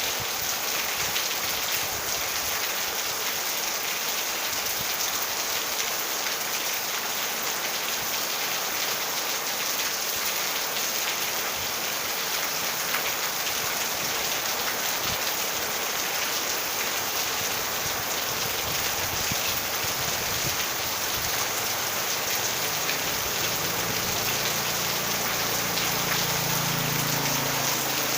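Steady rain falling, a constant even hiss with no let-up. A faint low hum comes in near the end.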